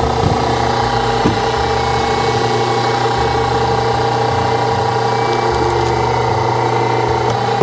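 Hydraulic log splitter running steadily, its ram pushing into a log that is slow to split, the toughest one yet for this low-tonnage splitter. A short knock near the end.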